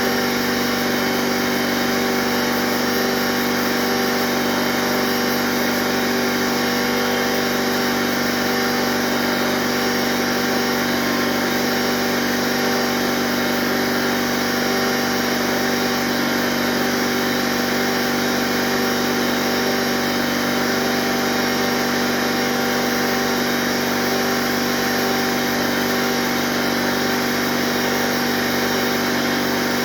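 Shop air compressor running, a steady, unchanging hum with several constant tones over a broad hiss.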